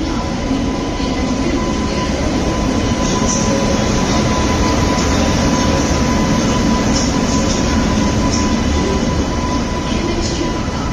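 A WAP-7 electric locomotive pulling its ICF coach rake past the platform while shunting in: a steady, loud run of wheel and running-gear noise with a thin steady whine over it and a few short clicks.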